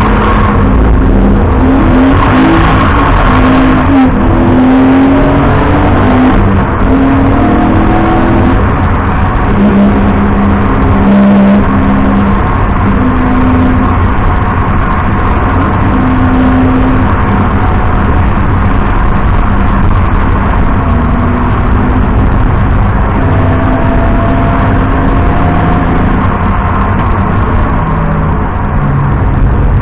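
BMW 330i E90's straight-six engine under hard driving, its pitch climbing and falling again and again as revs rise through the gears and drop for corners, over a steady rushing road and wind noise.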